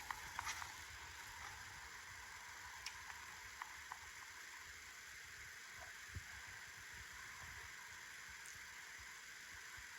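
Faint, steady outdoor background hiss, with a few light clicks and taps in the first second and a few more scattered later.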